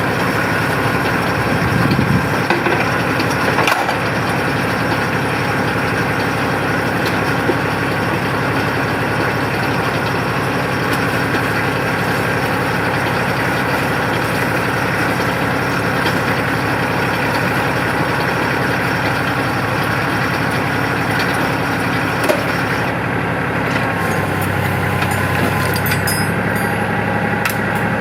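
Tractor engine running steadily during winch logging, with cracking and snapping of wood and brush in the first few seconds and once more later on.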